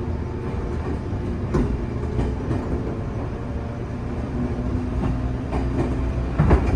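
JR 415 series electric multiple unit running along the track, heard from inside the car: a steady rumble with several rail-joint clacks, the loudest near the end.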